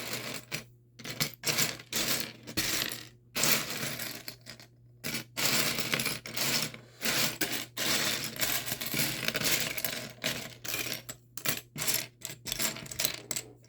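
Loose plastic Lego pieces rattling and clattering in irregular bursts as they are handled.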